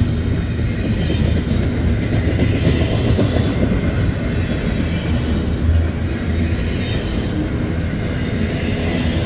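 Double-stack intermodal freight train of well cars rolling steadily past at close range: a continuous rumble of steel wheels on the rails.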